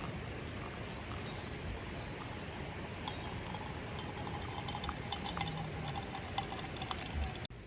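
Wood campfire crackling, with a steady hiss and many irregular sharp pops that grow denser partway through, cutting off suddenly near the end.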